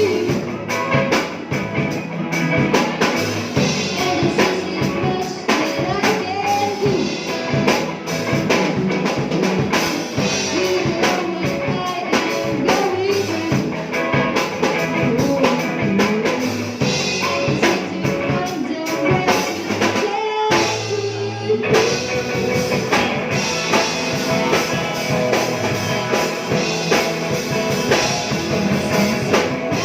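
Rock band playing live: drum kit, guitars and a singing voice. About two-thirds through, the drums and cymbals drop out for about a second over a held bass note before the band comes back in.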